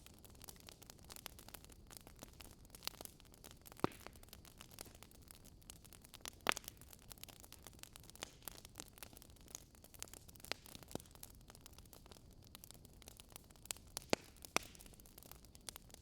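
Wood fire crackling: irregular sharp pops and snaps over a low steady hiss, the loudest pops about four and six seconds in and a couple near the end.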